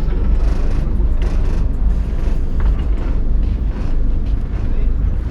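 Tourist boat's engine running at the landing with a steady low rumble.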